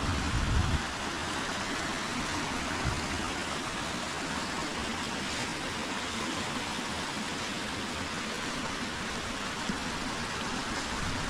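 River flowing: a steady rush of water, with a brief low rumble in the first second.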